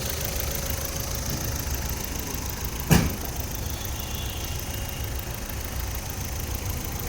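2010 Ford Figo engine idling steadily, a sound the owner judges to be OK. A single sharp thump about three seconds in.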